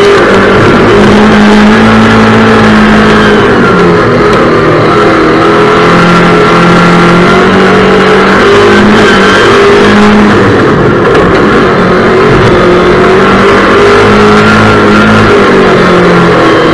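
Race car engine heard loud from on board at racing speed, its revs climbing and dropping over and over through the corners.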